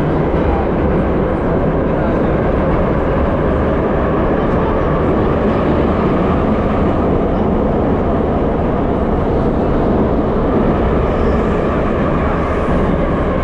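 Ezh-3 metro train running, a steady rumble of wheels on rails and traction motors.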